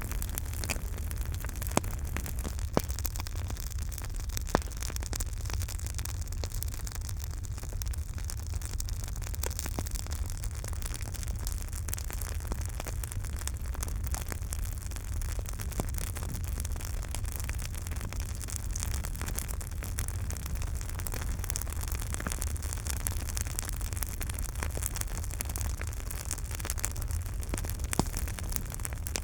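Campfire burning: a steady hiss over a low rumble, with scattered crackles and a few sharper pops, three in the first five seconds and one near the end.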